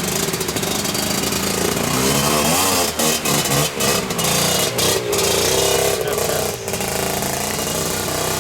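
Motorcycle engine running under way, its pitch wavering up and down as the throttle changes, over a steady hiss, with a few brief dips in level about three to five seconds in.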